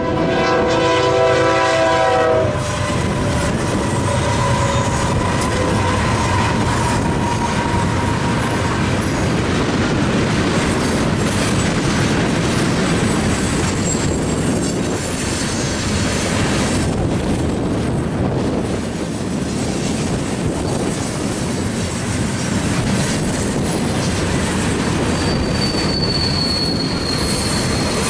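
A BNSF freight train's air horn sounds a chord of several tones, cutting off after about two and a half seconds. The train then rolls past the crossing, its freight cars making a steady rumble and wheel noise on the rails. A thin high wheel squeal comes in near the end.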